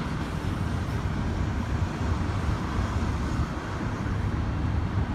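Double-stack container cars of a freight train rolling past in a steady rumble, mixed with freeway traffic.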